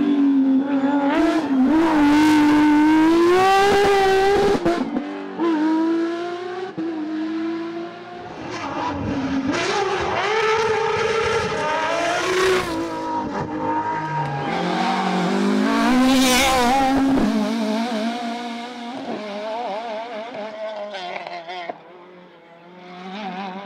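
Rally cars passing at speed on a stage, engines revving hard with the pitch rising and dropping through gear changes and lifts: one car in the first few seconds, another from about nine seconds in, fading away near the end before the next one approaches.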